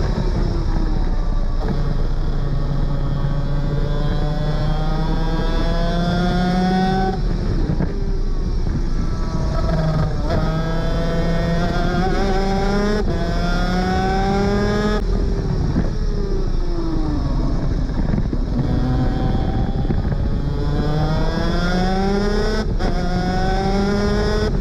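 Superkart 250's two-stroke engine at full racing speed, its pitch climbing hard through the revs and dropping sharply at each gear change, with a stretch of falling revs near the middle as it slows for a corner.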